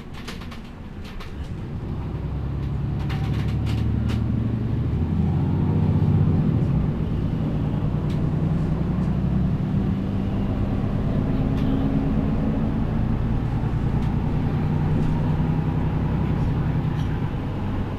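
Diesel engine of a MAN Lion's City G articulated city bus pulling away and building speed, with a gear change about six and a half seconds in, then running steadily under way. A few light clicks sound near the start.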